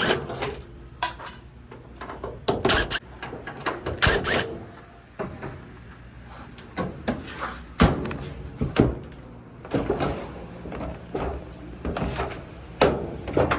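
Scattered clunks, knocks and rattles of hands working inside an opened clothes dryer cabinet, handling its panels and wiring.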